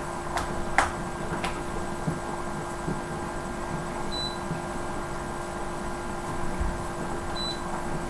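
Hoover Ecologic 800 automatic washing machine running on its rinse cycle: a steady motor hum, with a few sharp clicks in the first second and a half.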